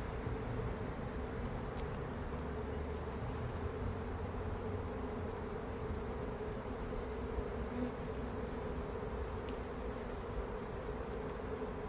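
Honey bees buzzing steadily around an open hive, a constant hum, with a few faint clicks.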